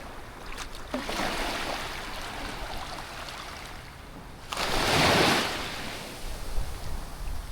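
Small waves washing onto a sandy beach, one louder swell of surf rising and fading about halfway through.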